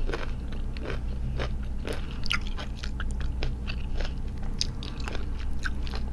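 A person chewing a mouthful of crunchy unripe green mango, with irregular crunches and wet mouth clicks.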